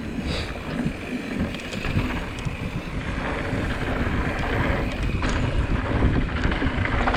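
Wind rushing over an action camera's microphone while a mountain bike rolls along a dirt trail, with tyre rumble and light clicks and rattles.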